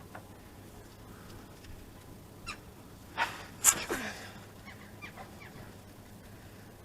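Light clicks and knocks of hand work on an engine. About three and a half seconds in there is one short, loud squeaky creak that falls in pitch.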